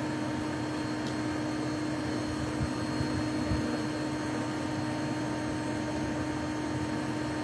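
A steady, even hum at one constant pitch over a hiss, with a couple of faint knocks about three seconds in.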